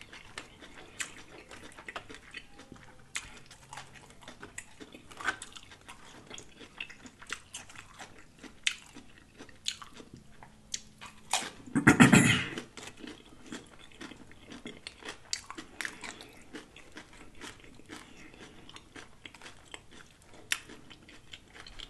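Chewing and crunching on loaded tortilla-chip nachos: a running patter of small, sharp crisp crunches, with one much louder burst about halfway through.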